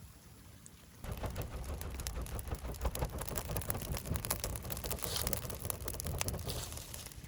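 Fish sizzling and crackling on a grill, a dense patter of small pops that starts abruptly about a second in.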